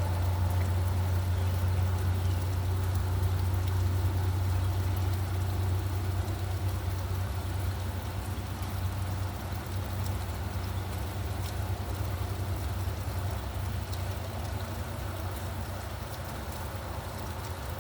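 Steady rain with a low traffic rumble underneath, the rumble slowly fading; scattered raindrop ticks.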